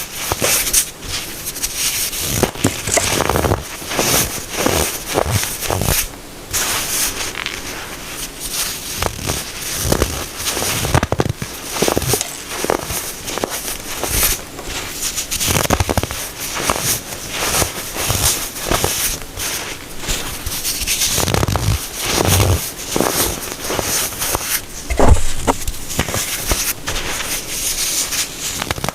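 Compressed baking soda being crunched and crushed by hand, a dense, continuous crackling with sharp squeaky crunches and soft powdery scrapes between them.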